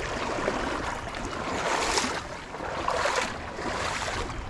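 Rushing water of a high, fast-flowing creek, a steady hiss that swells and eases a few times.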